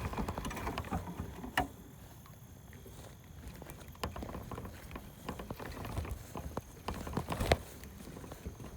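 Irregular rustling and light clicks, with a sharp knock about a second and a half in and a louder one near the end.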